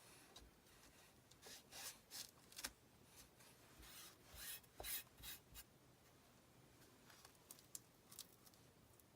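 Faint scraping strokes of a squeegee spreading chalk paste across a transfer, a quick run of strokes in the first half, then a few light ticks.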